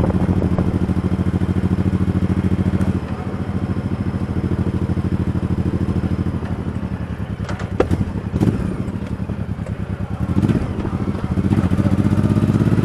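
Motorcycle engine running while riding, a fast steady pulsing note. It eases off about three seconds in and picks up again near the end, with a few sharp clicks in between.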